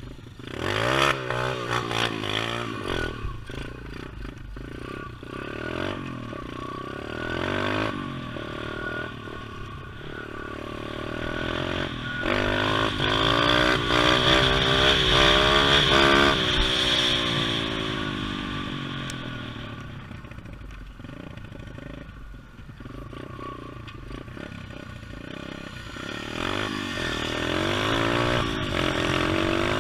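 Pit bike engine revving up and down through the gears as the bike rides past, loudest about 13 to 17 seconds in, then fading and coming back near the end.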